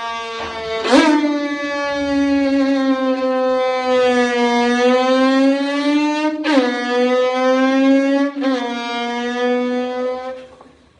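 Violin bowed to imitate an engine: one long, buzzy held note whose pitch slowly sags and climbs again, broken by three sharp bow attacks. It fades out just before the end.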